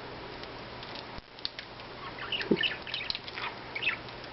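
Budgerigars chirping and chattering in short, quick notes that start about two seconds in, after a few faint clicks.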